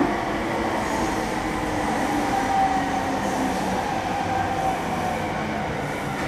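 Cabin of a JR East E231-series electric train running: a steady rumble of wheels and track with a faint motor whine that glides slowly down in pitch as the train slows.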